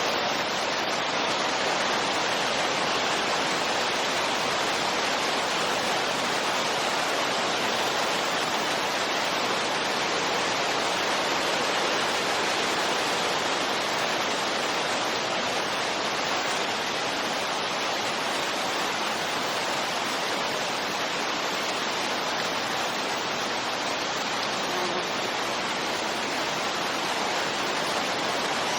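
Steady wind noise used as white noise: an even rushing hiss that holds level throughout, with no gusts or breaks.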